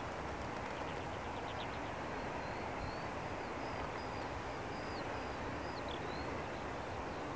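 A small bird chirping repeatedly, a run of short rising and falling chirps, over a steady outdoor rushing background.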